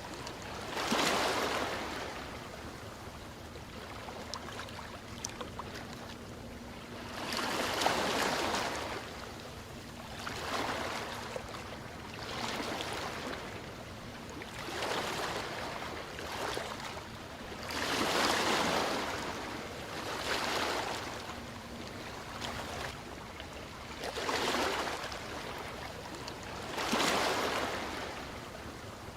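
Ocean waves washing ashore, the sound swelling and falling away every few seconds; the largest waves break about every eight to ten seconds, with smaller washes between.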